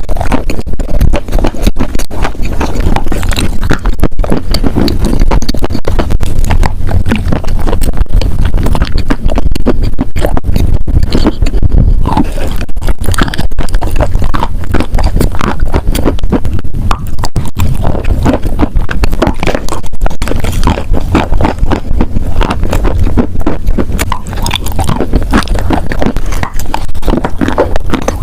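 Loud, close-miked chewing of wet chalk: a continuous stream of soft crunches and crackles.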